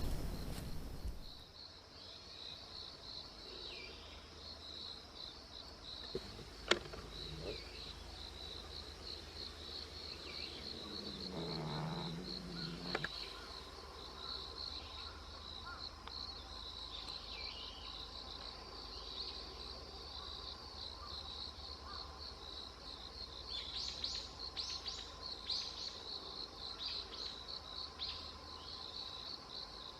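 Insects chirring steadily in a high, fast-pulsing tone, with a few short bird chirps joining near the end.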